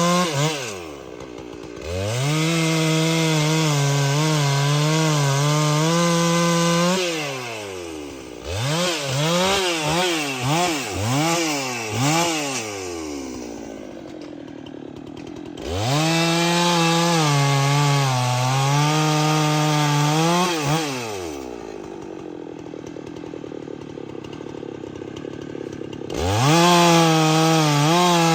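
Chainsaw engine repeatedly revved to full throttle and let fall back to idle. Its pitch sags a little while held high, as if loaded in the cut. About eight seconds in there is a run of quick throttle blips, and idle stretches lie in the middle and after twenty seconds before it revs up again near the end.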